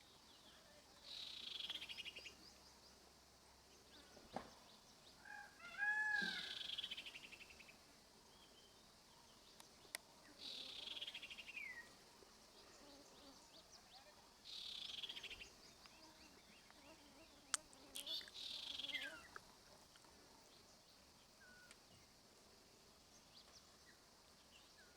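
Wild birds calling: a buzzy, rapidly pulsed trill that falls in pitch, repeated about every four seconds, with a few looping whistled notes about six seconds in and a couple of sharp clicks.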